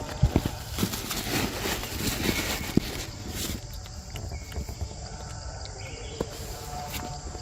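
Outdoor ambience with a steady high insect drone, overlaid in the first few seconds by rustling and scattered knocks.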